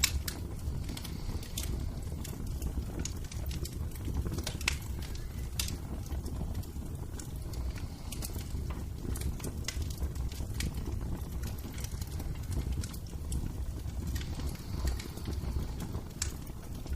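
Wood fire burning in a fireplace, crackling with scattered sharp pops at irregular intervals over a steady low rumble.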